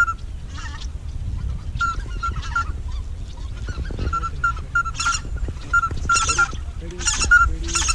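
Goose honking: many short, high calls repeated in quick runs, with wind rumbling on the microphone underneath.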